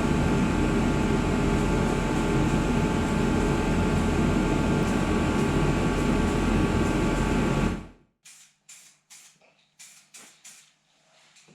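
A loud, steady machine noise with a low rumble and a few steady tones, which cuts off suddenly about eight seconds in. After that come a string of short, faint hissing spurts.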